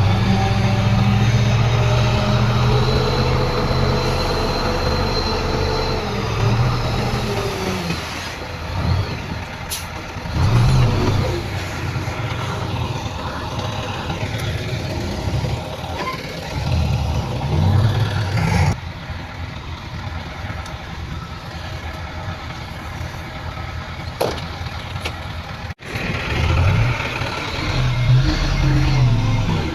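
Heavy diesel earthmoving machinery working: bulldozer and dump truck engines running and rising in pitch under load several times, with sudden changes where the footage cuts.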